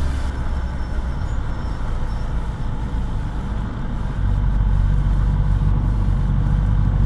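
Kawasaki ZX10R on its stock exhaust running at a steady speed in road traffic, a low, even engine hum that grows louder about four seconds in.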